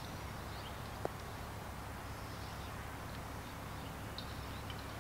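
Quiet outdoor ambience with faint, scattered bird chirps and one small click about a second in.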